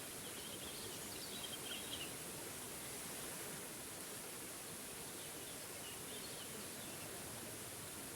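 Steady rush of a small woodland waterfall, with birds chirping faintly in two short spells, about half a second to two seconds in and again around six seconds in.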